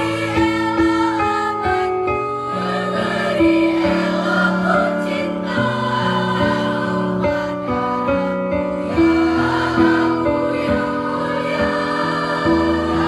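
Student choir singing in several-part harmony, holding long notes that change together.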